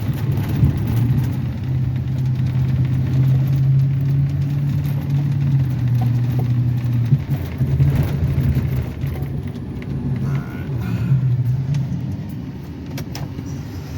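Plow truck's engine running under way, its pitch rising and falling with the throttle, then easing off somewhat near the end.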